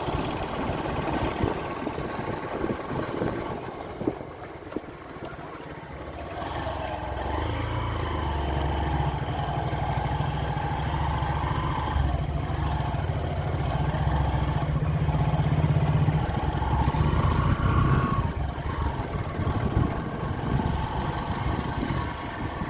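Motorcycle engine running, with rushing wind noise in the first few seconds. The engine grows louder and steadier about six seconds in and holds until about eighteen seconds, then eases off.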